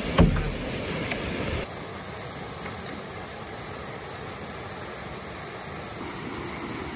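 A short thump and low rumble in the first second and a half, then the steady rushing of a small woodland waterfall cascading over rocks, which comes in abruptly.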